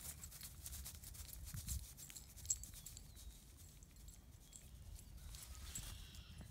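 Faint, scattered crunching and crackling of footsteps on hard-frozen, frosty ground, over a low rumble.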